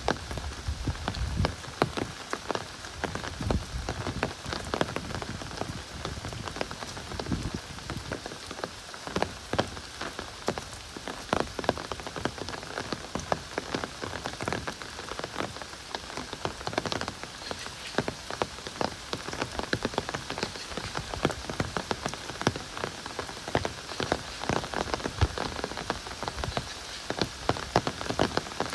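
Heavy rain pouring steadily, a dense patter of individual drops striking close by over a continuous hiss of rainfall.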